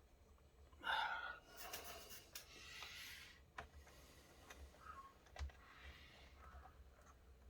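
Faint handling of small laptop parts: scattered rustling and a few sharp plastic clicks, with a brief louder scrape about a second in.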